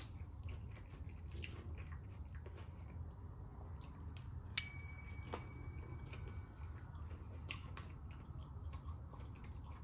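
Close-up chewing and biting of crispy fried chicken, wet crunches and small clicks, over a steady low hum. About halfway through there is a single sharp ping that rings on for about a second and a half.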